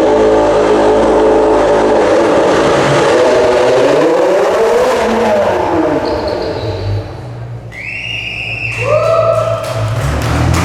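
Car engine revving hard under acceleration, loud and steady at first, dropping and climbing in pitch midway, then fading away. About eight seconds in, background music comes in.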